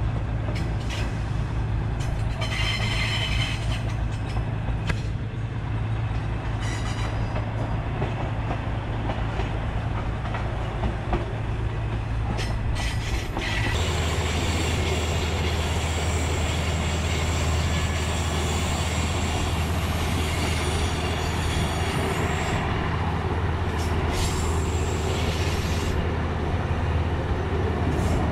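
Diesel-hauled passenger train running along the track, heard from an open coach door: a steady rumble of wheels on the rails with rushing wind. There is a brief high whine a few seconds in and again near the end. The rumble changes character abruptly about halfway through.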